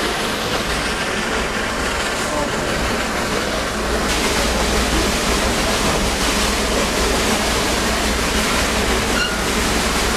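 A passenger train running along the track, heard from on board as a steady rushing rumble of wheels and carriage that grows louder about four seconds in.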